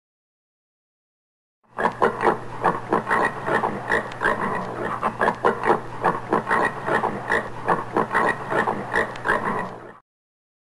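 Common warthog grunting in a rapid run of short grunts. They start about two seconds in after silence and stop suddenly near the end.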